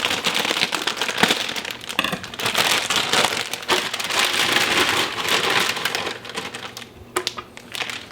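Dry noodles poured from a crinkling plastic bag into a crock pot, with many small clicks of pasta landing; it thins out near the end.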